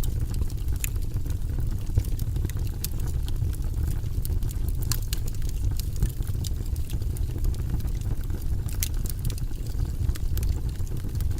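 Wood fire burning in a fireplace: a steady low rumble of flames with scattered sharp crackles and pops, several in close succession about five seconds in and again near nine seconds in.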